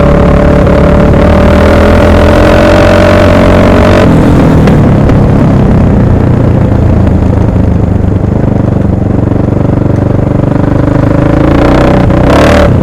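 1998 Husaberg FC600 single-cylinder four-stroke dirt bike engine running hard under riding load. Its pitch drops suddenly about four seconds in, then climbs again near the end.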